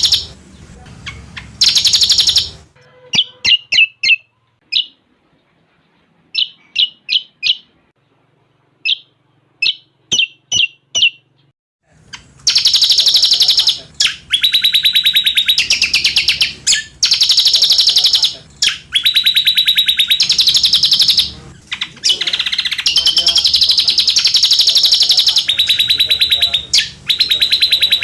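Cucak combok singing, its song mixed with cililin-style phrases: short separate high chirps for the first several seconds, then from about twelve seconds on long, rapid, high trills that run almost without a break.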